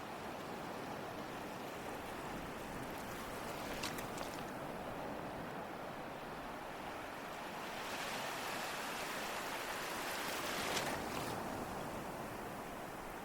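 Ocean surf washing steadily on a shore, with a wave swelling and breaking about two-thirds of the way in.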